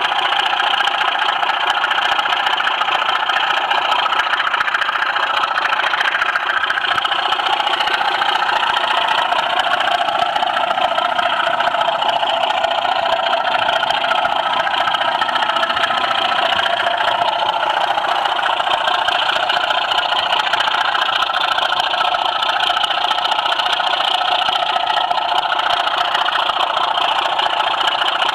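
A model railway train running on the track, heard up close from a camera truck: a steady whirr of the motor and wheels that does not let up.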